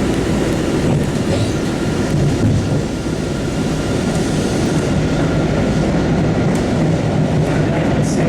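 Steady rumble of a Siemens 700 Series MBTA Blue Line subway train rolling on the rails, heard from inside the car, with some clicking over the rails and a faint thin wheel squeal.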